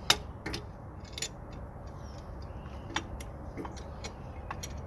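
Scattered short metal clicks and taps, about ten at uneven spacing with the loudest just after the start, as a C-clamp is set against a brake caliper to press the piston back in. A steady low rumble runs underneath.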